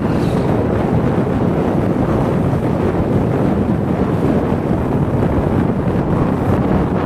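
Loud, steady wind rushing and buffeting over the microphone, as on a ride at speed.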